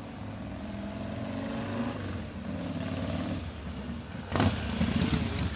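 Buell XB12S air-cooled V-twin running on its newly fitted points ignition, building steadily in level, with a sudden loud burst about four and a half seconds in.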